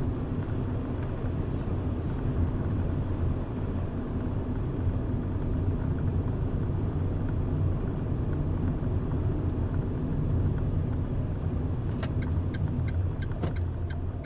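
Car driving along the road: a steady low rumble of engine and tyre noise. Near the end there is a quick run of light ticks, about two or three a second.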